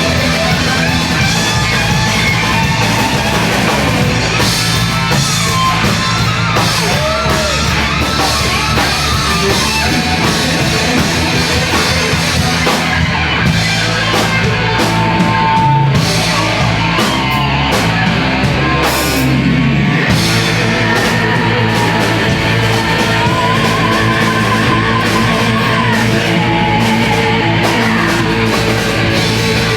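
A band playing loud, distorted hardcore rock with electric guitars and a drum kit, the music running without a break.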